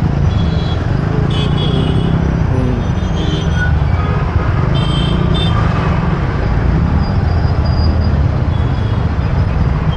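Busy city road traffic heard while riding through it: a steady low rumble, with several short vehicle horn toots in the first half.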